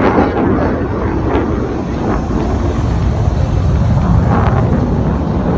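Pratt & Whitney F100 turbofan engines of an F-15 fighter jet, a loud, steady jet roar.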